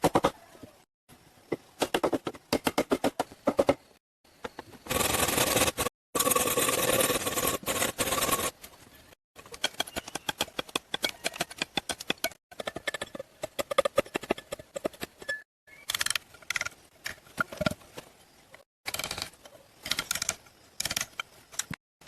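A series of short knocks, taps and clicks from hand work with natural materials, with a few seconds of continuous scraping-type noise about a quarter of the way in, broken by several abrupt cuts.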